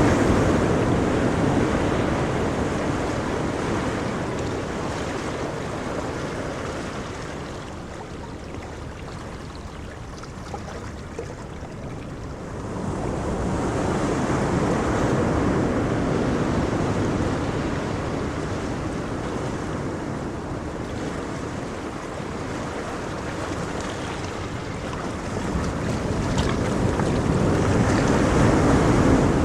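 Ocean waves breaking and washing on a shore, the surf swelling and easing in slow surges, a new swell building about thirteen seconds in and again near the end.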